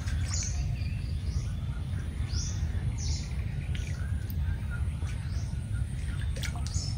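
Birds chirping, with short high calls about once a second, over a steady low rumble.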